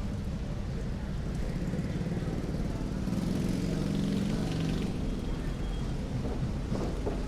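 Street traffic in the rain: vehicle engines running steadily over a hiss of rain, with one vehicle passing louder about three to five seconds in.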